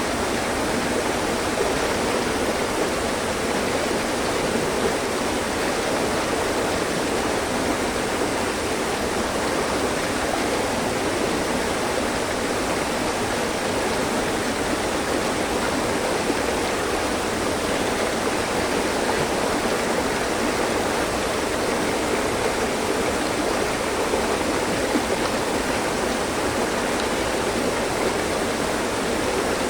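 Mountain stream flowing steadily, its water rushing and splashing over rocks in an even, unbroken wash of sound.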